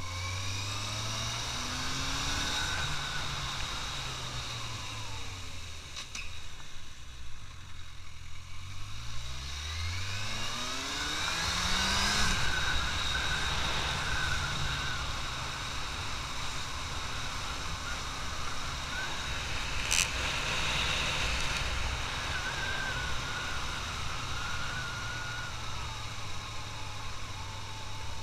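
Suzuki GSX650F's inline-four engine heard from the rider's seat, revving up through the gears, easing off, pulling hard again, then holding a steady cruise, over a hiss of wind and road noise. A brief sharp click about twenty seconds in.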